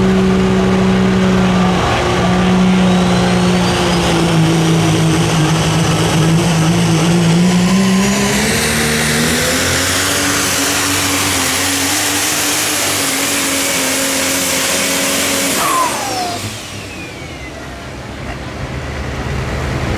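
Super stock diesel four-wheel-drive pulling truck running hard under load. Its turbocharger whistle climbs to a high, steady whine. About sixteen seconds in, the throttle comes off: the sound drops and the whistle winds down in a falling glide.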